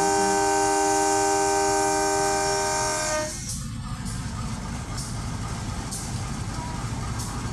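A passing train's horn sounds a long chord of several steady tones, cutting off about three seconds in. It is followed by the steady rumble of the train running past, with occasional sharp clacks of wheels over the rail joints.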